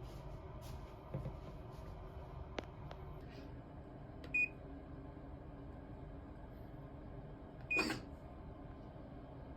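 Two short electronic appliance beeps over quiet room noise, one about four seconds in and another near the end together with a brief clatter, with a few small clicks before them.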